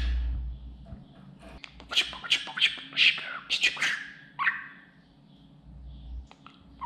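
Budgerigar chattering: a quick run of short chirps and warbles, busiest in the middle, with a low rumble at the start and again near the end.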